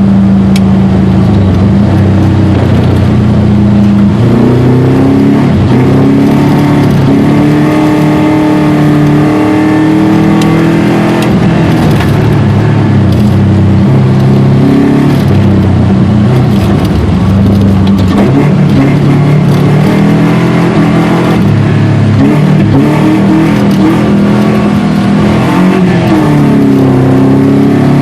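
Subaru Impreza RS rally car's flat-four engine being driven hard, revving up and dropping back repeatedly as it accelerates and shifts, with loud rises and falls in pitch.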